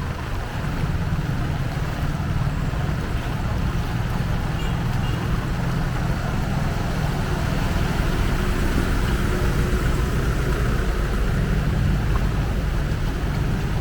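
Steady noise of a heavy rain downpour, with a low rumble underneath.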